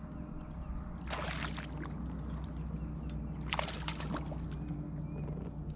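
Steady low hum of a boat's motor, with two short bursts of splashing and sloshing water, about a second in and again between three and four seconds in.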